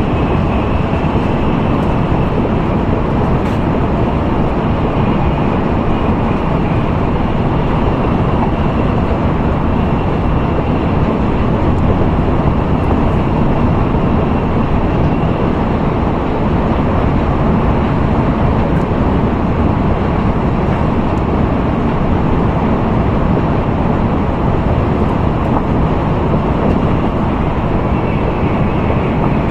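Steady running noise of an N700A Shinkansen heard inside the passenger car: an even rumble and rushing noise with a faint high whine over it.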